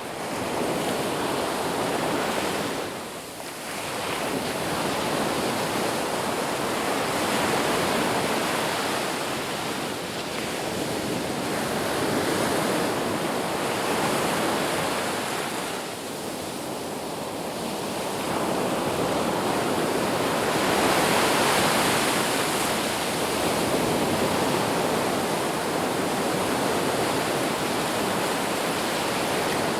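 Ocean surf washing onto a beach: a continuous rush of noise that swells and ebbs over several seconds, with lulls about three seconds in and again around halfway.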